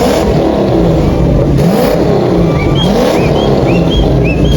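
Car engines revving hard, their pitch repeatedly rising and falling, with a few short high chirps in the second half.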